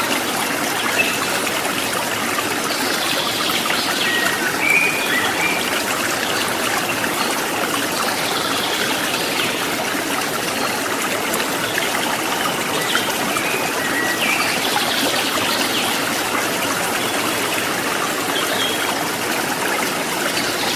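Steady trickling and babbling of a stream, with a few faint short high chirps over it now and then.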